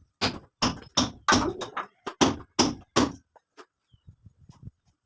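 A quick run of about nine strikes, roughly three a second, followed by a few faint knocks.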